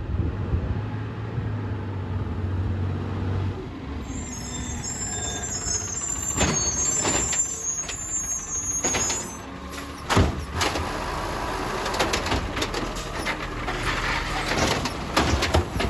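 Recycling garbage truck's diesel engine running, with a high air-brake squeal through the middle, then a series of sharp knocks and bangs from about six seconds in, clustering near the end.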